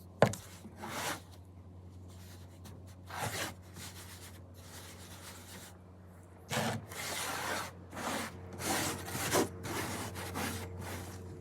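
Rubbing and scraping of a thick baking soda and dish soap paste being mixed by hand, in irregular bursts, busiest in the second half. A single sharp knock comes about a quarter second in.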